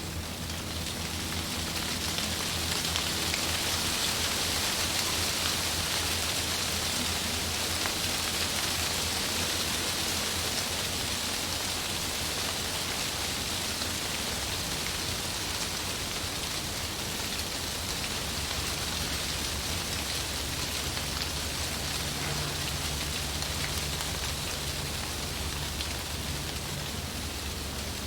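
Wind rustling through leaves: a steady rushing hiss that swells a few seconds in and then holds, with a faint low hum underneath.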